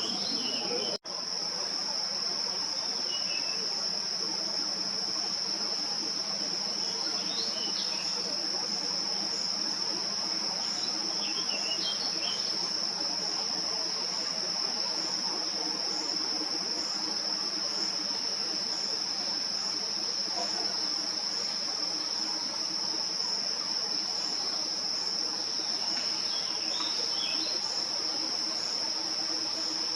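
Insects trilling steadily on one high pitch, with a few faint bird chirps now and then. The sound cuts out for an instant about a second in.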